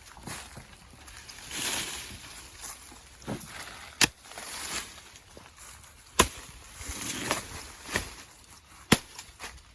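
Four sharp chopping blows spaced a second or two apart, with rustling of plants between them.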